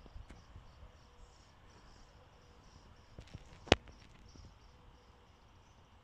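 Small birds chirping faintly and continuously in quick high-pitched notes, with one sharp click a little past halfway.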